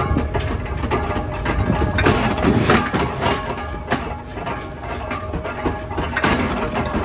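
Forging-shop machinery running steadily with a low hum, broken by irregular knocks and clanks.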